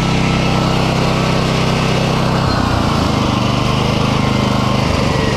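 Semi truck's engine idling steadily just after a jump start, its note changing briefly about halfway through.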